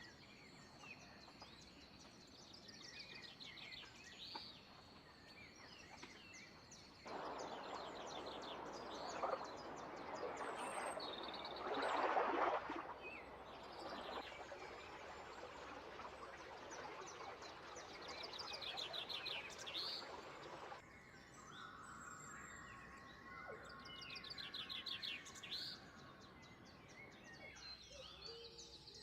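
Several wild birds chirping and trilling in short repeated phrases. Through the middle of the clip a steady rushing noise comes in and cuts off abruptly, swelling briefly about twelve seconds in.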